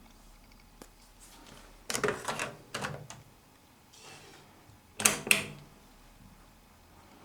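Hoover Keymatic A3112 washing machine being set and started: a run of sharp mechanical clicks and clunks, with the loudest pair of knocks about five seconds in.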